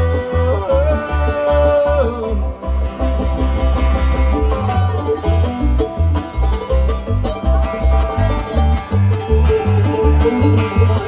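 Live bluegrass band playing an instrumental break: banjo picking with guitar over a steady pulsing bass line.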